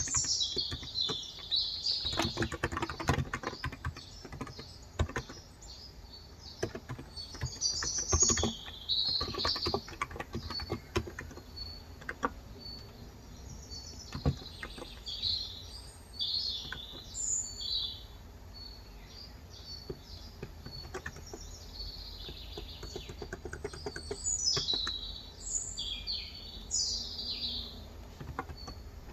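Bursts of typing on a Cox Endeavor electro-capacitive (35 g) tenkeyless keyboard, dense in the first half and sparse after, while small birds chirp repeatedly throughout.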